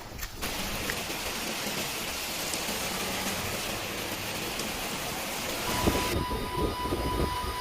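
Heavy rain falling, a steady hiss. About six seconds in it cuts to low rumbling with a steady high tone.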